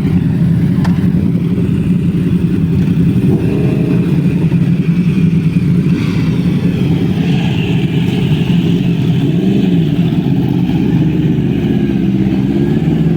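A motor vehicle engine running steadily and loud, its pitch wavering a little, with a brief rise and fall about two-thirds of the way through.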